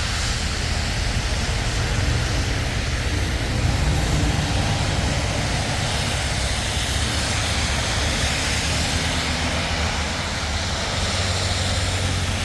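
Steady traffic noise from vehicles passing on a busy road beside a highway: a continuous low rumble with tyre hiss.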